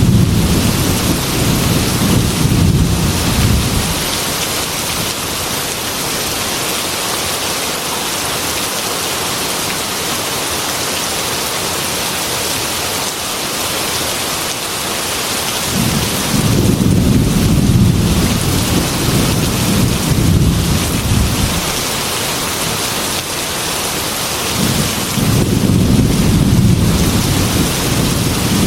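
Heavy rain falling in a steady hiss, with rolling thunder: a rumble fading in the first few seconds, another building about halfway through and lasting several seconds, and a third starting near the end.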